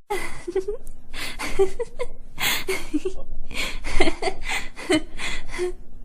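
A woman laughing in a string of short, breathy bursts.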